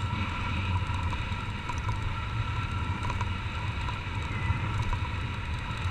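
Honda CG 150 Titan's single-cylinder four-stroke engine running steadily under way, heard from a helmet-mounted camera.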